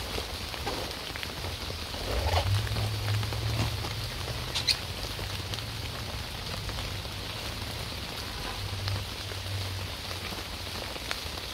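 Steady rain pattering on a camping tarp, heard from underneath, with scattered single drops ticking. From about two seconds in, there is a louder stretch of rustling as a person settles down onto a foam sleeping pad on leaf-covered ground.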